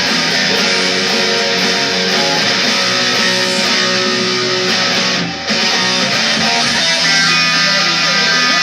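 Rock music led by a strummed electric guitar playing steadily, with a brief drop in loudness about five seconds in before it carries on.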